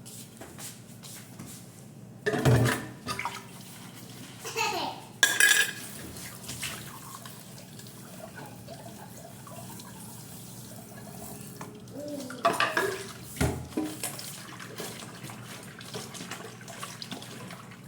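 Water running steadily, with a few louder bumps and clatters.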